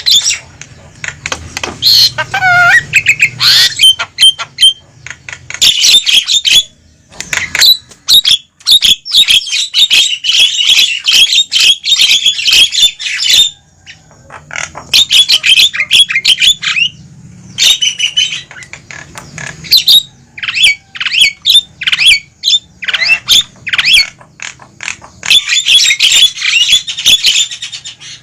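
Javan myna (jalak kebo) calls: noisy bursts of harsh chattering, squawks, clicks and whistles, broken by short pauses about 7 and 14 seconds in.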